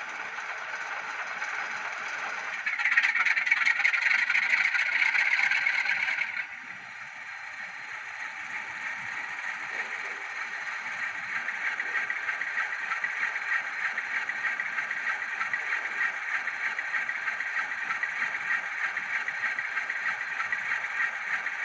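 Graham Farish N gauge Class 47 DCC sound decoder playing its cold engine start of the locomotive's diesel through the model's small speaker, thin with little bass. About three seconds in it turns louder for a few seconds, then drops suddenly and settles into steady engine running that slowly builds.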